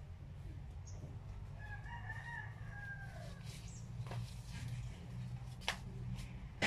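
A rooster crowing once, one drawn-out call lasting about a second and a half that falls away at the end. Later come a few sharp knocks, over a steady low hum.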